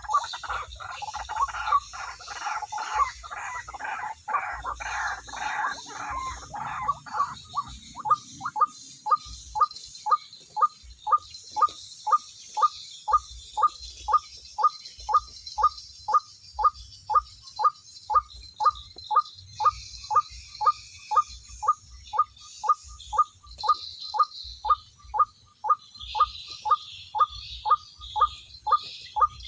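White-breasted waterhen calling: a dense run of overlapping calls for the first seven seconds or so, then one short note repeated steadily about twice a second.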